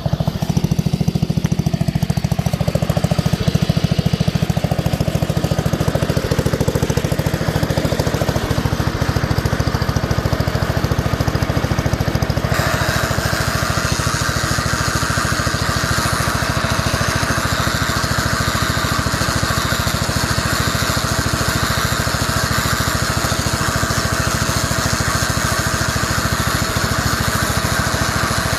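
Allis-Chalmers B-110 garden tractor's single-cylinder engine running steadily under load while driving a PTO winch. About twelve seconds in, a higher whirring hiss joins suddenly and carries on with the engine.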